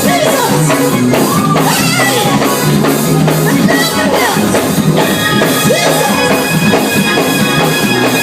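Church band music with a steady beat and bass line, with voices rising and falling over it.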